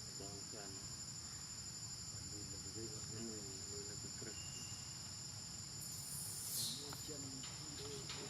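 Steady high-pitched insect chorus, with faint voice-like calls underneath and a brief hiss about six and a half seconds in.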